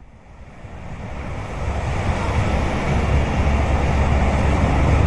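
Wind buffeting the microphone as a rushing noise with a heavy low rumble, fading in over the first couple of seconds and then holding steady.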